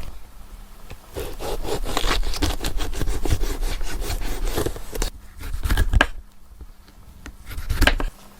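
Rough scraping and rubbing in quick, uneven strokes for about four seconds, then two shorter, louder scrapes near the end.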